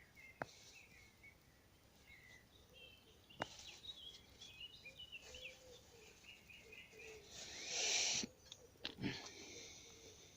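Woodland birds singing: many short, high chirps and warbling phrases, with some lower calls. About three-quarters of the way through, a brief rush of noise swells and cuts off, the loudest sound here, and a few sharp clicks are scattered through.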